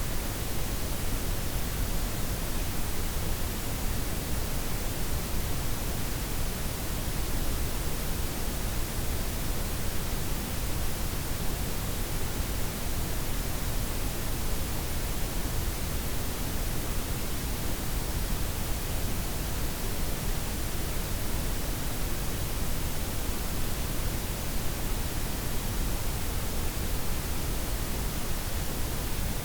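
Steady blend of white, pink and brown noise, an even hiss heavier in the lows, with no changes or events.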